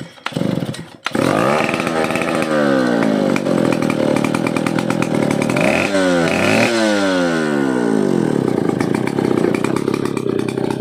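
Vintage Stihl 070AV two-stroke chainsaw engine catching about a second in, then revved up twice, each time falling back, before settling to a steady idle.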